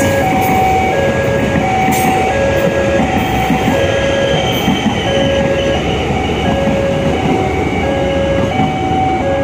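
Electric commuter train passing close by, its wheels and traction equipment making a steady rumble. Over it an electronic level-crossing alarm repeats two alternating tones, low then high, about once a second.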